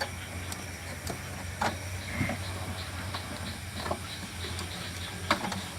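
Scattered light clicks and knocks as refrigerator parts are fitted back in place, over a steady low hum.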